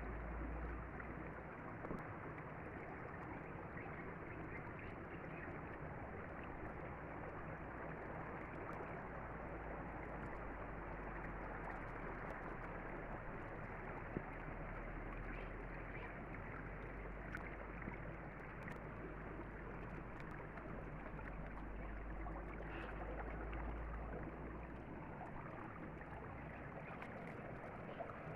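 Derna River water flowing steadily, an even rushing sound.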